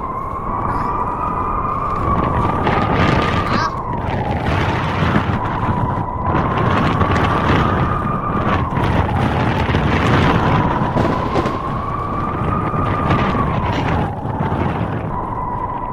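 Blizzard wind howling, a whistling tone that slowly rises and falls over a steady rush of gusting noise, with many short sharp crackles throughout.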